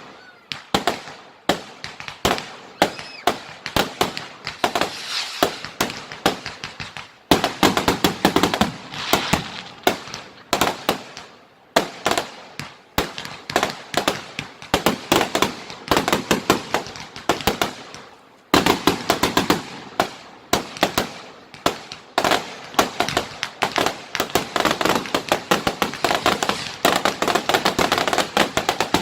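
Fireworks display: rapid strings of bangs and crackling from firework barrages, turning suddenly denser about seven seconds in and again about eighteen seconds in.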